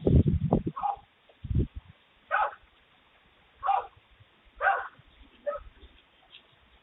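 A few loud thumps at the start, then a dog barking about five times, single short barks a second or so apart.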